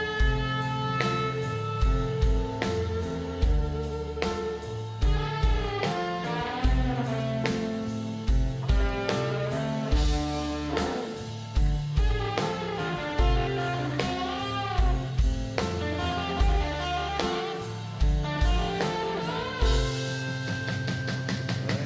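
Live rock band playing an instrumental passage: a lead guitar line with bending, gliding notes over steady kick drum, bass and chords.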